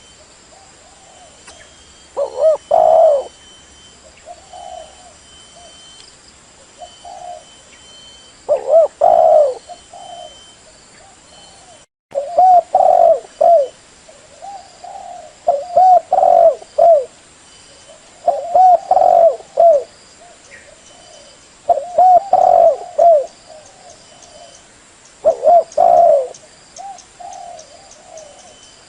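Spotted dove cooing over and over, a loud coo phrase every few seconds with softer coos between. This is a decoy call used to draw wild doves in for trapping.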